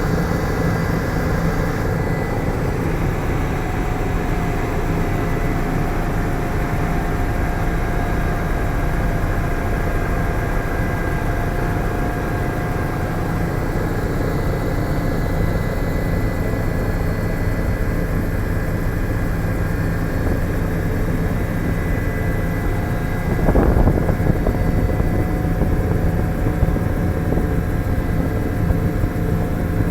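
Helicopter in flight: steady rotor and engine noise with a thin, even whine over a low rumble. About three quarters of the way through there is a brief louder burst.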